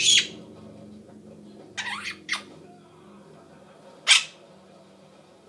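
Quaker parrot (monk parakeet) giving short, sharp, high-pitched squawks: one at the start, two quick ones about two seconds in, and a louder one about four seconds in.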